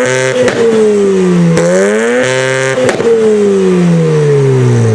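Rocket Bunny Mazda RX-7's engine revving hard: it climbs, drops back, climbs and holds, then winds slowly down, with a few sharp pops between the revs.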